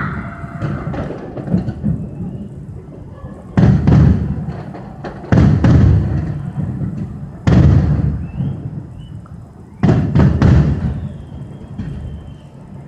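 Aerial firework shells bursting in a series of booms, about five, a second or two apart. Each boom starts suddenly and rumbles away over a second or more.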